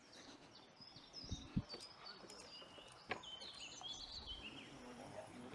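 Faint songbird chirps and short twittering calls, with a few light clicks.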